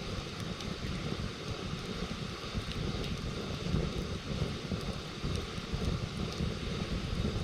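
Campfire burning with a few faint, sharp crackles over a steady low rumble, likely wind on the microphone.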